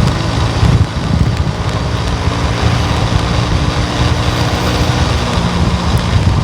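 Steady road noise from a vehicle being driven, with engine hum, tyre and road rumble and wind buffeting the microphone.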